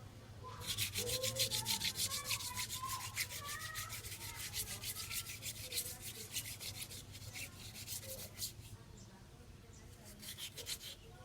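Rapid back-and-forth scrubbing on motorcycle engine parts, several strokes a second. It stops about eight and a half seconds in and starts again briefly near the end.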